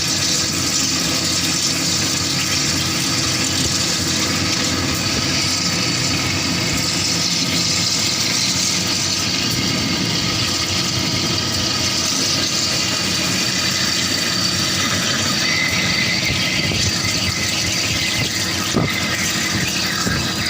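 CNC drilling machine running a heavy-duty drilling cycle: a steady machine hum with a dense high hiss, a high squealing tone coming in about three quarters of the way through, and a single sharp click near the end.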